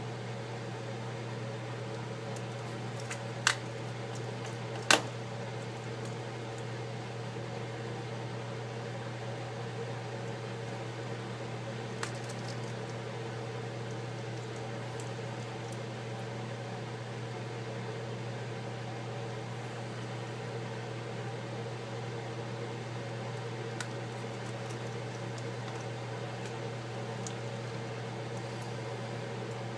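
Steady electrical hum with a few sharp clicks of small tools and parts on the bench while the LCD screws of an iPad 4 are put in; the two loudest clicks come a few seconds in.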